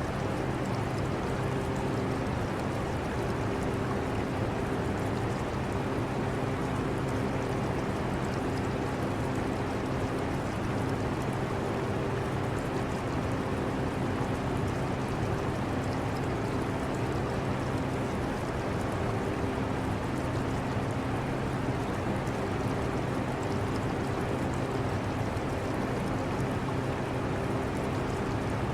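Portable air conditioner running with a steady hum, mixed with the trickle and splash of aquarium water.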